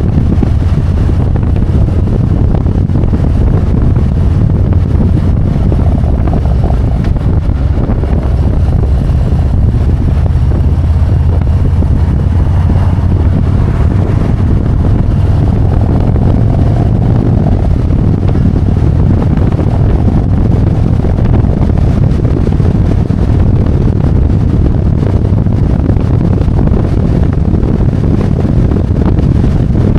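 Harley-Davidson Road Glide's V-twin engine running steadily at cruising speed, a loud, even low drone, with wind noise over the microphone.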